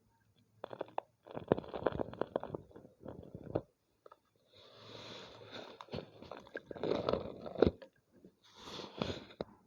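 A homemade gym chalk ball crunching and crumbling in several bursts of dry crackling, with short pauses between them.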